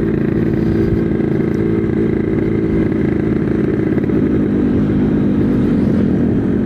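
Yamaha RX-King's 135cc two-stroke single-cylinder engine running at a steady cruise, heard from the rider's seat, with a slight change in engine note about two thirds of the way through.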